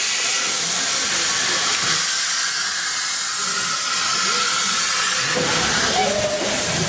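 Steam locomotive hissing: a steady, loud rush of escaping steam, with voices of onlookers underneath.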